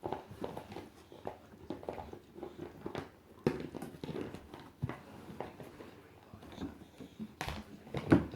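Scattered light knocks and bumps at irregular intervals, with faint rustling between them.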